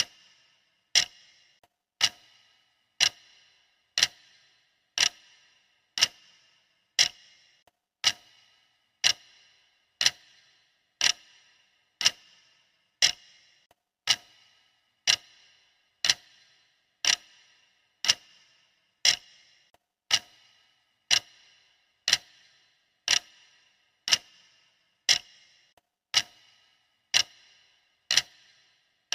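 Clock ticking steadily at one sharp tick a second, each tick with a short metallic ring.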